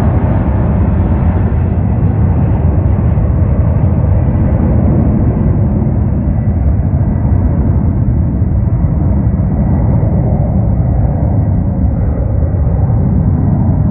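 Jet engine noise from an arriving Airbus A330-202: a loud, steady low rumble whose higher hiss slowly fades as the airliner moves away.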